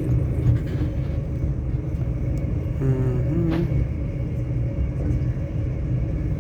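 Passenger train running, a steady low rumble heard from inside the carriage, with a brief pitched sound about three seconds in.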